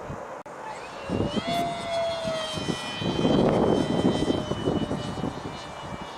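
Radio-controlled model aircraft's motor whining close by, rising in pitch about a second in as it throttles up, then holding a steady high note. Gusts of wind buffet the microphone, loudest around the middle.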